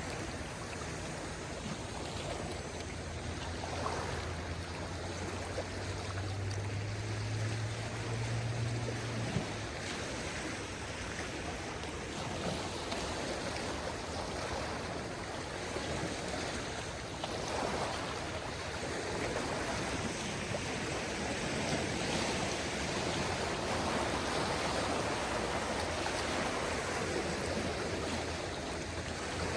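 Small waves of a calm sea washing steadily onto the shore, swelling now and then. A low hum sits under it for the first part and cuts off suddenly about nine seconds in.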